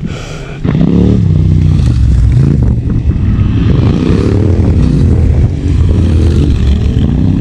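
Off-road motorcycle engine revving up sharply just under a second in, then running hard under load, its pitch wavering up and down.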